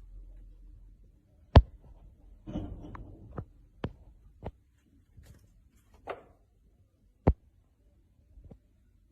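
A series of sharp knocks and thumps at irregular intervals, about eight in all, the loudest about a second and a half in and again near seven seconds, over a faint low hum.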